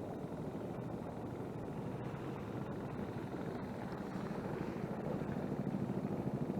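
A steady engine drone with a fast fluttering pulse, growing louder about four seconds in.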